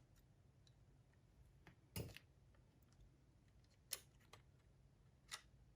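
Small parts of a cassette walkman being handled and fitted together during reassembly: three short, sharp clicks, about two seconds apart, the first the loudest, with a few fainter ticks between, over a low steady hum.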